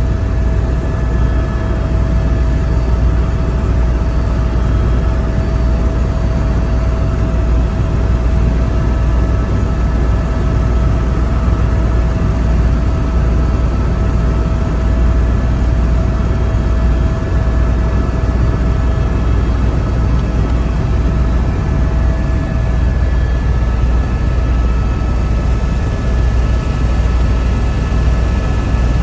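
Helicopter in flight: the steady, loud drone of its rotor and engine, with a deep rumble and faint steady whine tones on top. One whine drops out near the end.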